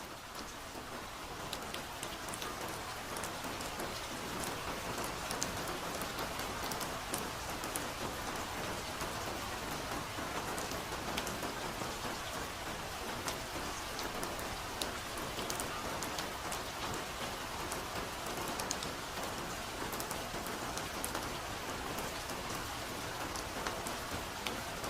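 Steady soft rain falling in a forest, a dense hiss with many individual drops pattering on leaves and surfaces. It swells up during the first few seconds, then holds steady.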